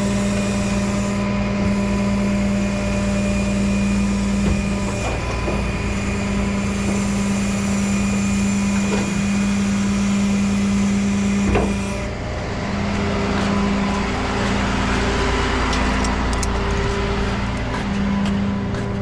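Rollback tow truck's engine running steadily at idle, with a few short knocks over it.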